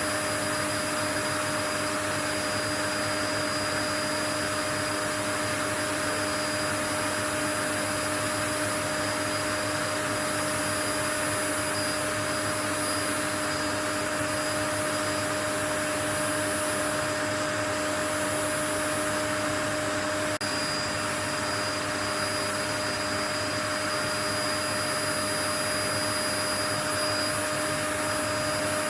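Steady white noise, a constant rushing hiss with a faint steady hum and high whine running through it and no change in level.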